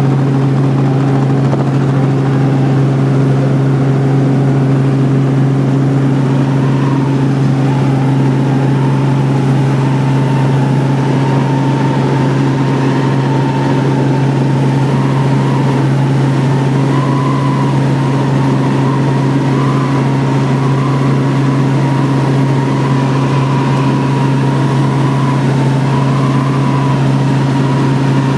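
Helicopter in flight heard from on board: a loud, steady low drone with a higher whine above it that wavers slightly in pitch.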